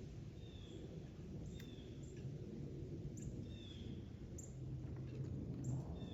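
Small birds chirping: several short, slightly falling chirps and high ticks at irregular intervals, over a steady low background rumble.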